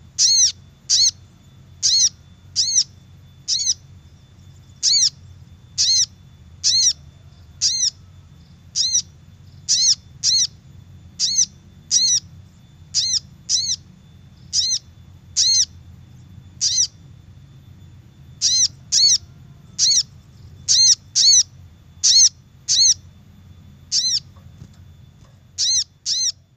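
Crimson sunbird (sogok ontong) calls: a short, sharp note repeated over and over, about one to two a second at uneven spacing, each note rising and falling in pitch. A steady low hum runs underneath.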